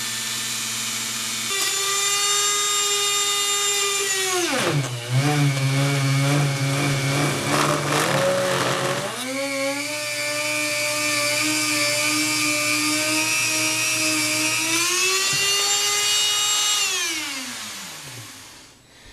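Handheld rotary tool with a buffing attachment, whining at high speed while buffing out the inside of a metal tube. Its pitch sags and wavers for a few seconds under the load of the buffing, then picks up again. Near the end it winds down, the whine gliding down and fading as the tool is switched off.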